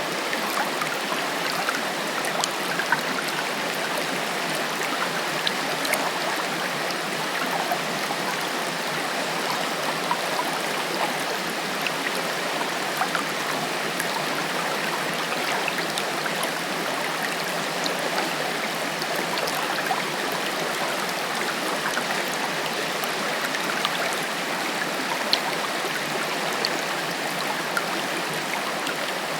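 Forest waterfall: water rushing and cascading over rocks in a steady, even wash, with occasional sharper splashes standing out.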